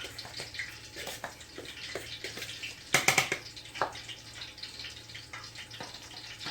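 Seasoned flour being stirred together in a bowl: a run of light scraping and tapping, with a louder clatter about three seconds in, over a low steady hum.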